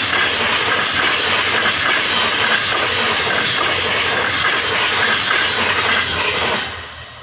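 Train running on the tracks, a loud steady rushing noise that drops away sharply near the end.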